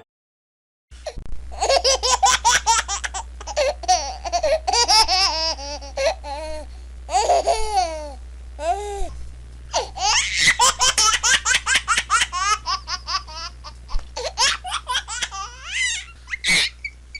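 A person laughing in long, rapid, high-pitched bursts, starting about a second in after a moment of silence, with a steady low electrical hum underneath.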